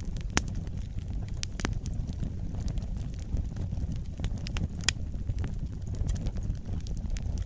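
Wood fire burning in a fireplace: a steady low rumble of flames with irregular sharp crackles and pops, the loudest about half a second in and near five seconds in.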